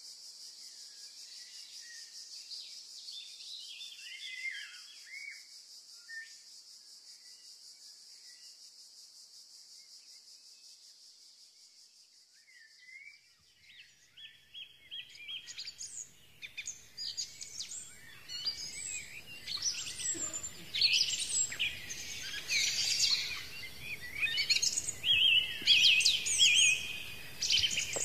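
Birdsong: a few scattered chirps over a steady high hiss, then from about halfway a dense chorus of many birds chirping and trilling that grows louder toward the end.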